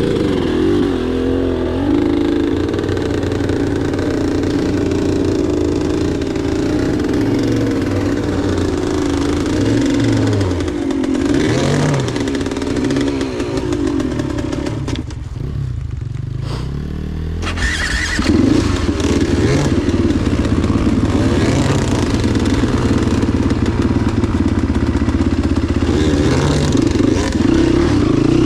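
Enduro motorcycle engine running under throttle on a ride, eased off for a few seconds a little past halfway and then opened up again.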